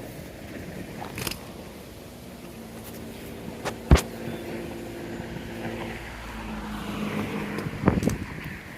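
A motor vehicle driving past, its engine humming steadily, over a noisy windy background. A sharp click or knock sounds about four seconds in.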